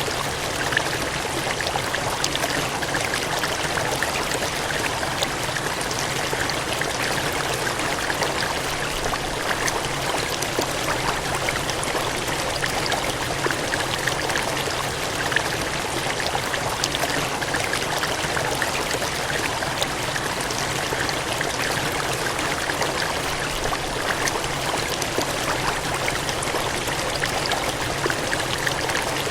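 Steady gushing, cascading water, an even splashing rush with fine droplet detail and no pauses or changes.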